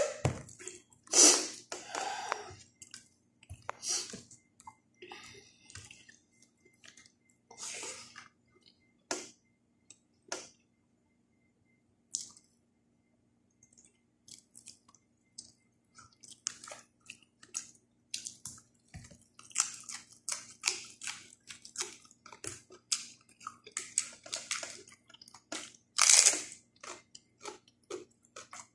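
Close-up eating sounds of a person chewing fish and raw vegetables: irregular wet smacks and clicks of the mouth, sparser for a few seconds about halfway, with a louder burst near the start and another a couple of seconds before the end.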